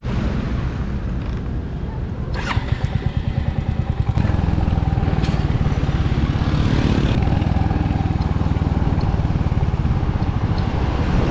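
Motorcycle ridden on the road, its engine running with wind and road noise on the microphone. The engine pulses unevenly for a second or so, then settles into a steady run from about four seconds in.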